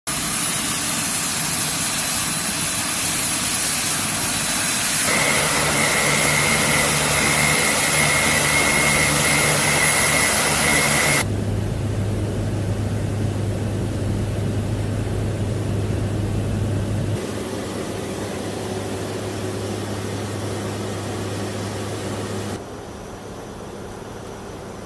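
WC-130J Super Hercules turboprop engines running: a steady drone with a low hum and, in one stretch, a high whine. The sound changes abruptly several times and gets quieter in steps toward the end.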